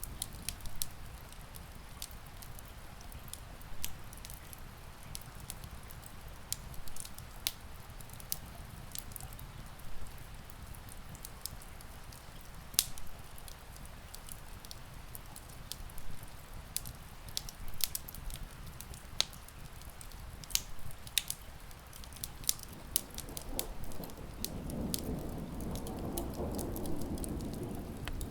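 Wood fire crackling with frequent sharp pops over a steady hiss of rain. Near the end a low rolling rumble of distant thunder builds up.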